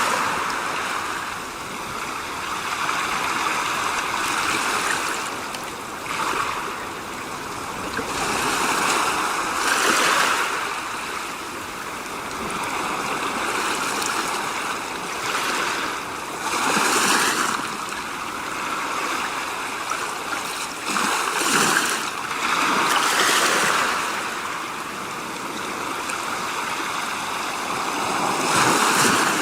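Rushing water-like noise that swells and fades irregularly every few seconds.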